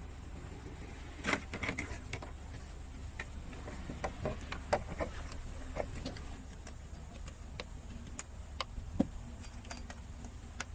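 Irregular light clicks and taps of hand work on wiring, over a steady low hum.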